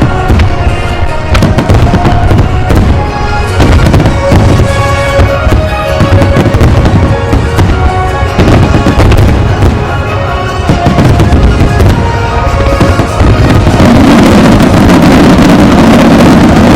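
Aerial fireworks bursting in quick succession, with sharp bangs and crackles over music. Near the end the bursts merge into a dense, continuous wash of sound.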